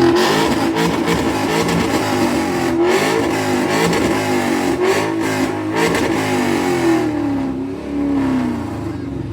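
Ford Mustang's engine revved hard through its exhaust again and again, the pitch rising and falling with each blip, with a few sharp cracks. It eases off a little near the end.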